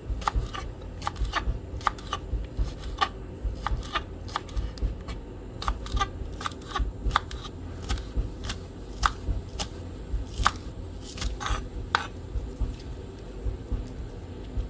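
Scallions (spring onions) being cut up: irregular crisp cuts, roughly one or two a second.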